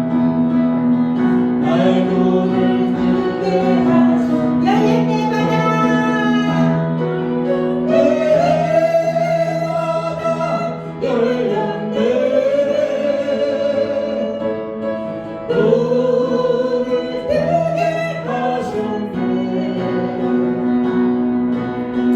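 Worship song: a sung melody over sustained instrumental chords, the voices held in long notes.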